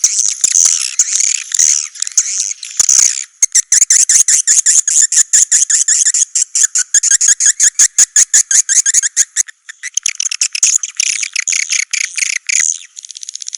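Swiftlet calls of the kind played as a lure sound in a swiftlet house: high twittering chirps mixed with fast trains of dry clicks. About three seconds in, the chirps give way to a rapid ticking chatter, several ticks a second, which loosens into twittering again near the end.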